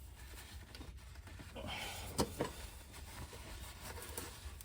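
Faint handling sounds of hands wiping off and tightening an oil filter by hand: a brief rub, then two short knocks about two seconds in, over a low steady rumble.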